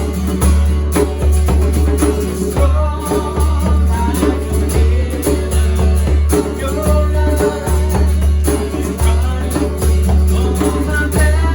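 Worship band playing an upbeat song, with singing over a steady, heavy bass beat.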